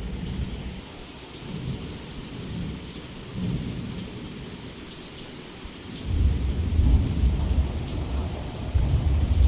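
Heavy rain falling steadily, with low thunder rumbling on and off; a stronger, longer roll of thunder builds about six seconds in.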